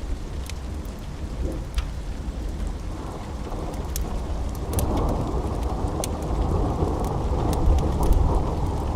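Steady rain with a rolling thunder rumble that swells about halfway through, plus scattered sharp crackles.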